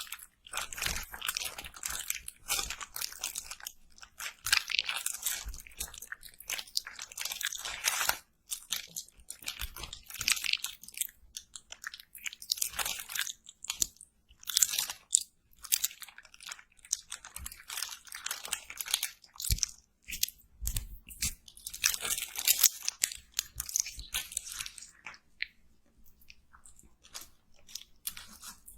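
Close-miked crunchy eating sounds: repeated crisp bites and chewing of crunchy food, in irregular clusters with short pauses between them, quieter toward the end.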